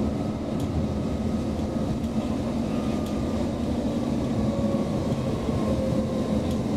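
Cabin noise of a Roslagsbanan X10p electric multiple unit running along the line: a steady rumble of wheels on the rails with a constant low hum, and a few faint clicks.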